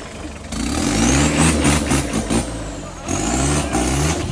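Off-road 4x4 truck engine revving in two surges, with a high whine that climbs and then falls away.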